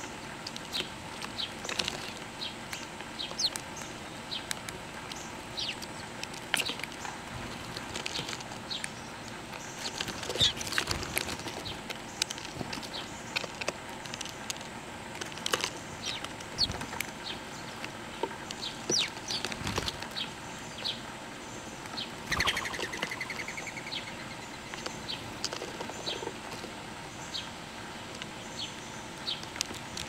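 Birds chirping: many short, high chirps all through, with bursts of wing flapping and a warbling call about two-thirds of the way in.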